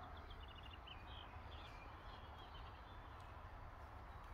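Faint wild birds chirping, with a quick run of short repeated notes in the first second and scattered chirps after, over a steady low rumble.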